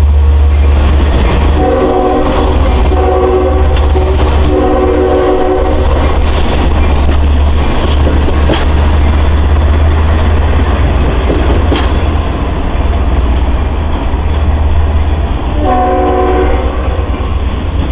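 Long Island Rail Road M-3 electric multiple-unit train passing a grade crossing with a steady low rumble and scattered wheel clicks. Its horn sounds three blasts in the first six seconds and another near the end.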